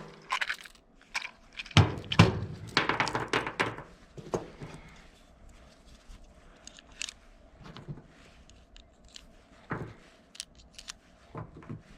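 Small metallic clicks and rattles of .22 LR cartridges being pressed into a Glock 44 magazine and the magazine being handled, busiest in the first few seconds, then a few scattered clicks.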